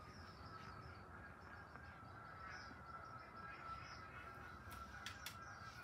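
Faint bird calls over a steady high hum, with a few soft clicks near the end.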